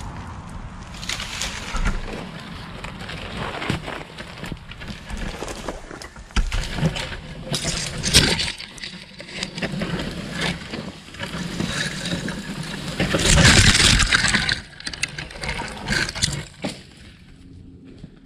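Cedar limbs being handled, dragged and broken up: irregular rustling and scraping with sharp snaps, the sharpest about eight seconds in, and a loud, longer rustling scrape about thirteen seconds in.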